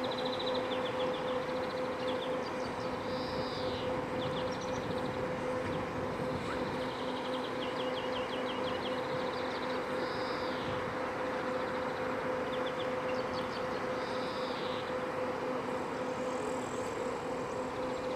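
Steady mechanical hum and rumble of the river cruise motor ship's engines, with one steady droning tone, while small birds chirp and trill several times above it.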